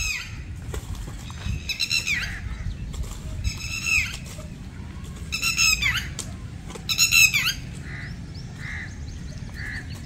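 A bird squawking again and again: short harsh calls that fall in pitch, about five of them, with a few softer calls near the end, over a low steady rumble.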